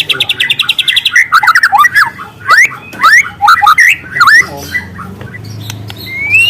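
Juvenile white-rumped shama (murai batu) singing. It opens with a fast, rattling trill, then gives a run of loud whistled notes that slide up and down, and ends with a rising whistle.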